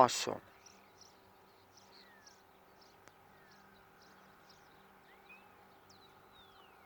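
Faint outdoor birdsong: scattered short, high chirps and a few thin whistles sliding in pitch, over a low, steady hum.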